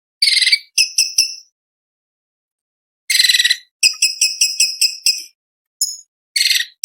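Orange-bellied leafbird (cucak cungkok) singing. It alternates short harsh, rasping bursts with quick runs of sharp, clear chipping notes. A silent pause of about a second and a half comes after the first phrases.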